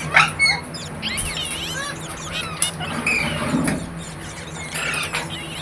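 Indian ringneck parrot calling: one sharp screech just after the start, then a string of short squeaky chirps that rise and fall in pitch.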